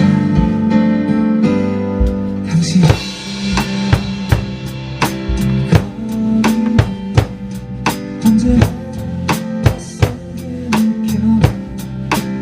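A drum kit played along to a backing track of a worship song: kick and snare hits come in about three seconds in over the sustained backing music and keep a steady beat.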